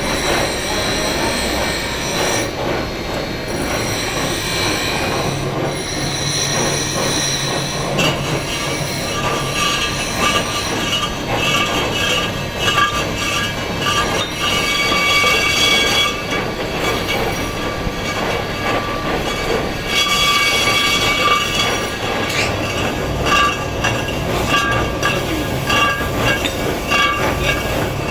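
A machine running steadily, with a high squealing whine that swells and fades several times.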